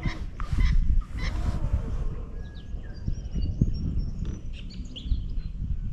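Birds calling: two short low calls in the first two seconds, then thin, high chirps of small birds, over a steady low rumble.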